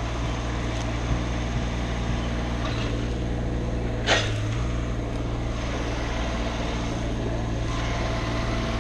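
An engine running steadily at a constant speed, with one sharp knock about four seconds in.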